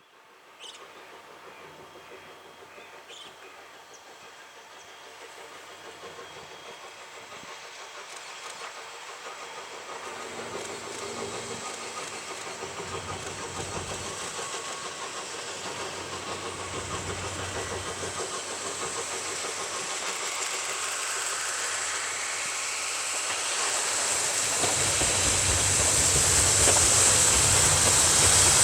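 C58 steam locomotive approaching with its train, a steam hiss growing steadily louder, with a deeper rumble of the running gear joining near the end as it draws close.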